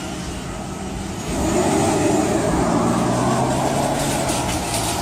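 A motor vehicle running, with its engine hum under road noise; it grows louder about a second and a half in.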